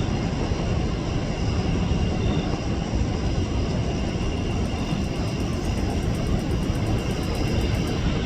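Jet airliner engine noise: a steady, low rumble.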